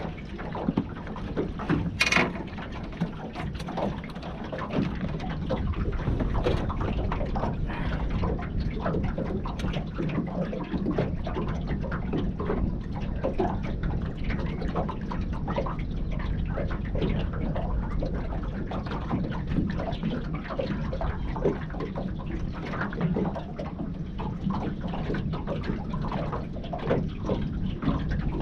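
Water splashing and trickling with many small irregular splashes over a steady low hum, and one sharp click about two seconds in.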